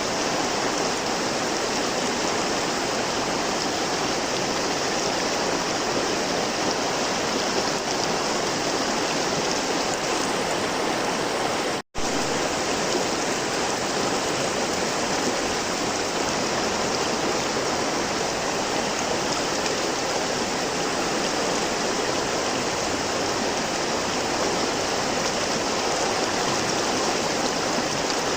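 River water flowing steadily in a continuous even rush. It cuts out completely for an instant about twelve seconds in.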